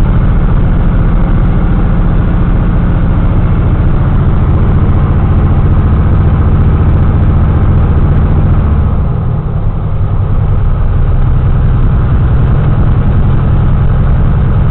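Strong blizzard wind buffeting the microphone: a loud, steady low rumble that eases briefly about nine seconds in.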